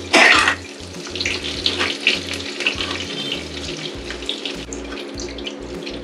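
Sliced onions frying in shallow oil in a steel kadai on a low flame: a steady soft sizzle with small crackles. A short loud scrape of the spoon in the pan comes at the very start as the onions are lifted out.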